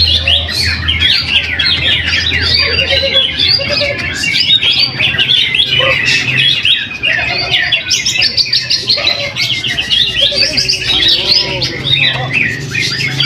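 Caged greater green leafbirds (cucak hijau) singing at once in a contest, a dense, continuous stream of fast chirps and warbled phrases.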